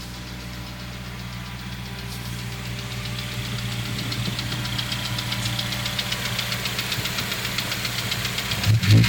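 Honda S2000 four-cylinder engine idling with a rapid, even ticking from around the intake manifold, growing louder through the clip; the cause is unknown to the owner. A louder low thump comes near the end.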